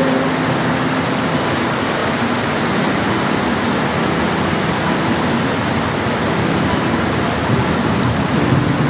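Steady, dense hiss of heavy rainfall, even throughout, with faint low hum-like tones under it at the start and again near the end.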